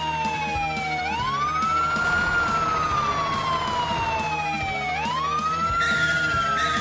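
Emergency vehicle siren sound effect in a slow wail: the pitch sweeps quickly up, then slides slowly down, about once every four seconds, rising about a second in and again near the end. Background music with a steady beat runs under it.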